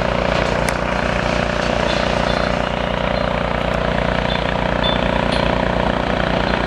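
Diesel engine of a demolition excavator running steadily with a fast even throb, with a few brief high metallic clicks and squeaks over it.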